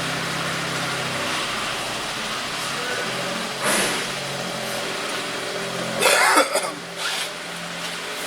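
Hyundai Equus engine idling, heard inside the cabin as a steady low hum. A short burst of noise comes about four seconds in and a louder cough about six seconds in.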